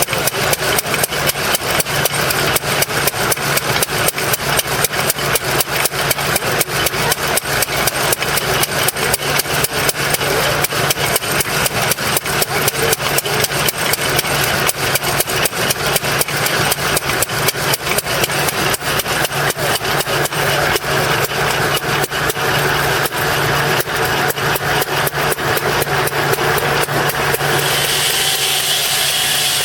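An engine running with a rapid, even pulsing beat. Near the end the beat smooths into a steadier sound with more hiss.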